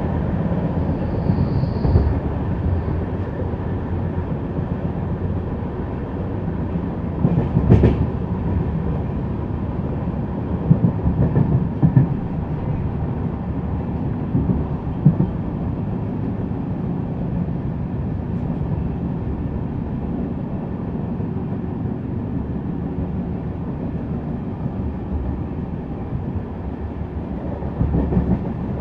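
Indian Railways express train running along the track: a steady low rumble with the clack of wheels and a few louder knocks, the loudest about eight seconds in.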